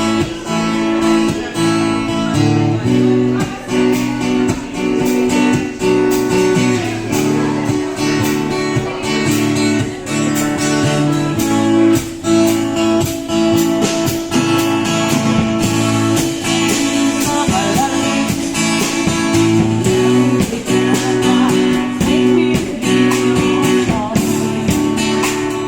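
Guitar music: acoustic guitar chords strummed and plucked steadily.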